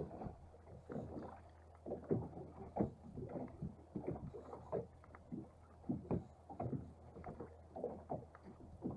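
Small waves lapping and slapping irregularly against the hull of a small fishing boat, a few soft knocks a second.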